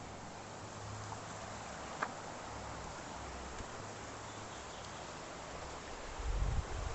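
Steady outdoor background hiss with a faint low hum and a single click about two seconds in; near the end a low rumble buffets the microphone.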